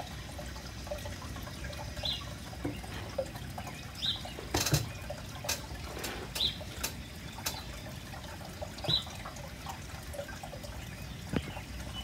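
Outdoor garden ambience: a bird repeats a short high chirp every couple of seconds over a steady low background noise, with a few sharp light taps and clicks, the loudest a cluster about halfway through and one near the end.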